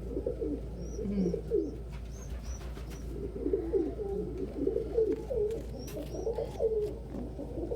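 Several domestic pigeons cooing, the calls overlapping and busiest in the second half. Short high chirps come in small runs, with a few light clicks among them.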